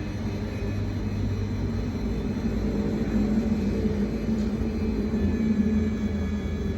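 Electric motors and gearboxes of radio-controlled construction models running with a steady whirring drone, which swells a little through the middle.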